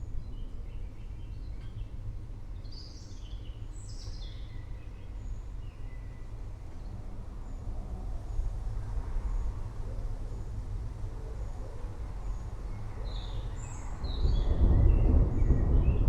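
Thunder rumbling low and steadily, swelling louder about fourteen seconds in, while songbirds chirp and twitter in short bursts near the start and again near the end.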